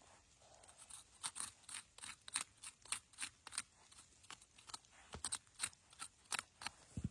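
A run of short, crisp snipping or crunching clicks, about three a second, stopping shortly before the end, followed by one low thump.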